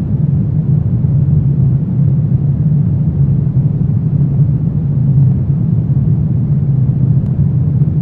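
Steady low rumbling drone from a horror ambience soundtrack, dark and unchanging, with no distinct events.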